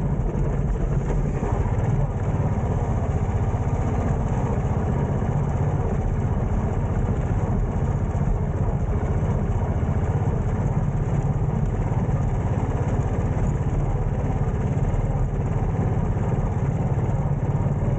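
Royal Enfield motorcycle running steadily while being ridden, a continuous low engine sound.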